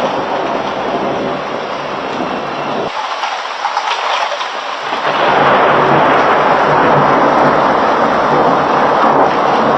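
Heavy rain pouring down in a thunderstorm, a steady loud hiss that grows heavier about halfway through.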